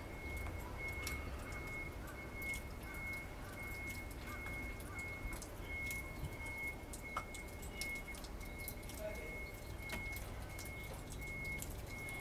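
Small splashes and drips of water, scattered irregularly, as a female pale thrush bathes. Underneath runs a faint high tone pulsing about twice a second.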